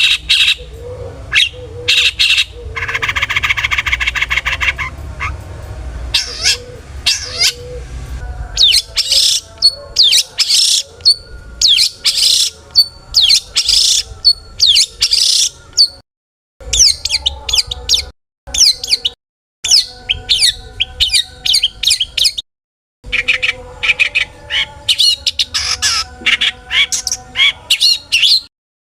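Long-tailed shrike (cendet) singing a fast, varied 'full isian' song of sharp chirps, whistles and squawks mixed with mimicked phrases of other birds. It includes a buzzy rattling call a few seconds in. The sound cuts out abruptly a few times in the second half.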